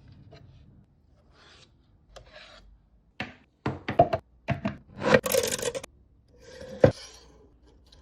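Hard plastic parts of a 3D-printed fidget toy rubbing and rasping against each other in irregular strokes. The strokes are faint at first and grow louder and closer together from about three seconds in, with a sharp knock near the end.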